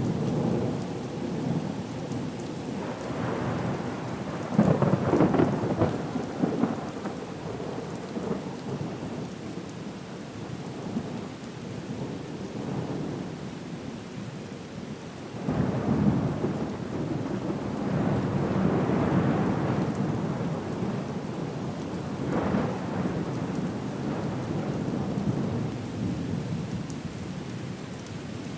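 Storm ambience of steady rain with rolling thunder: several low rumbles swell and fade, the loudest about five seconds in.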